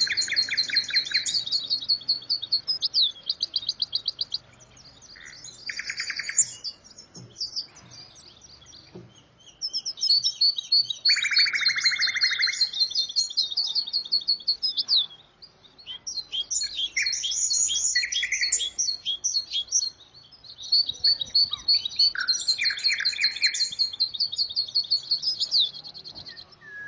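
Songbird singing long phrases of rapid, tinkling twitters, several with a buzzy lower trill, broken by short pauses.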